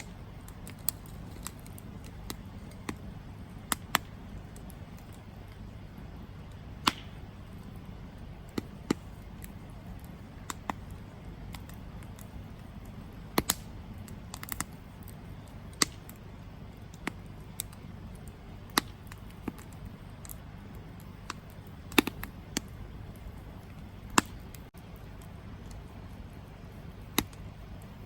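Wood campfire crackling: sharp, irregular pops and snaps, a few much louder than the rest, over a steady low rush of burning.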